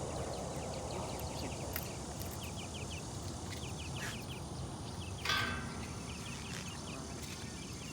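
An animal chirping in quick runs of short, high, downward-slurred notes over a steady low rumble, with one brief noisy rustle about five seconds in.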